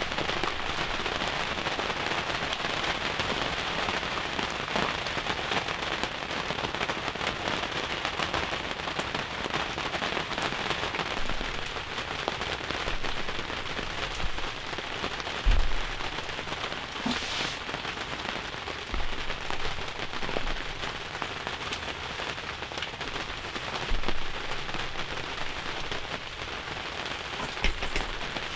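Heavy rain falling steadily on a hunting ground blind, with a few louder thumps about halfway through and near the end.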